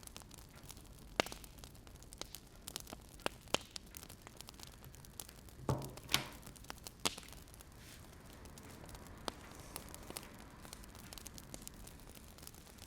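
Wood fire crackling: a soft steady hiss with irregular sharp pops, a cluster of louder pops about six seconds in.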